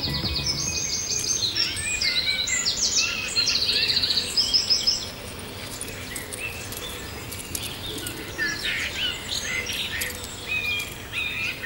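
Songbirds singing: rapid repeated trills for about the first five seconds, then softer scattered chirps.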